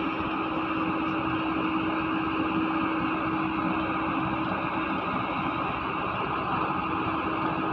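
Heavy excavator's diesel engine running steadily, with a constant humming tone over the engine noise.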